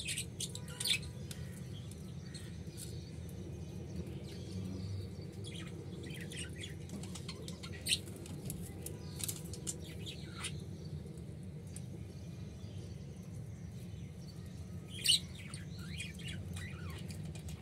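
Short, high bird chirps scattered through, loudest about eight seconds in and again near the end, over a steady low hum.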